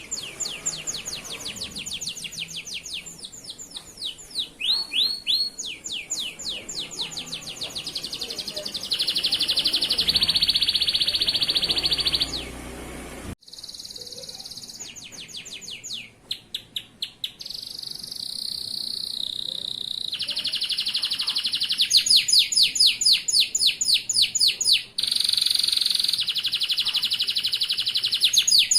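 Male domestic canary singing continuously in fast rolling trills and rapid repeated sweeping notes. Long, fast, even trills come about a third of the way in and again near the end. The song cuts off suddenly for a moment just past the middle.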